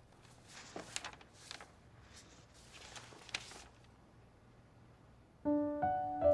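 Quiet room tone with a few faint, short rustling or scuffing sounds, then piano music starts about five seconds in with sustained notes.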